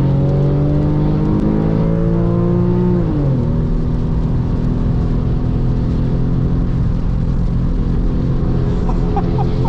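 Porsche 996.2 Carrera's 3.6-litre flat-six with a valved sport exhaust, heard from inside the cabin at speed on a wet track. The pitch climbs slowly for about three seconds, drops sharply, then holds steady, over a constant low rumble of road and spray noise.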